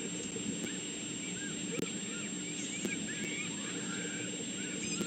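Birds chirping in short, high, scattered calls over a steady electrical hum and background hiss.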